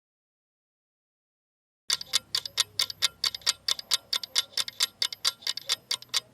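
Countdown timer sound effect ticking rapidly, about five ticks a second, starting about two seconds in after near silence.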